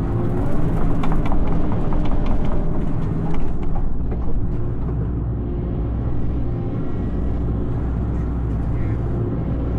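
Hitachi excavator's diesel engine running steadily, heard from inside the cab. Clicks and rattles over the first few seconds, while the machine is louder, then it settles to an even hum.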